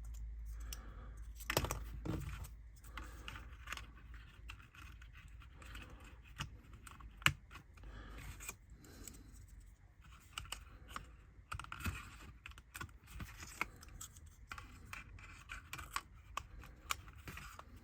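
Small clicks, taps and scrapes of laser-cut window frames being handled and pressed into their recesses in a model building kit, with one sharper click about seven seconds in.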